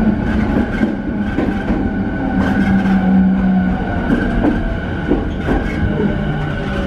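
E217-series EMU running, heard inside the motor car: the Mitsubishi IGBT-VVVF inverter and traction motors give steady whining tones, with wheels clicking over rail joints. The low tone steps down in pitch about two-thirds of the way through as the train slows into a station.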